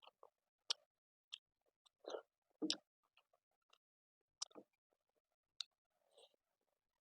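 Close-up mouth sounds of someone eating chicken curry with rice: wet chewing and lip smacks, heard as irregular short clicks with quiet gaps between them.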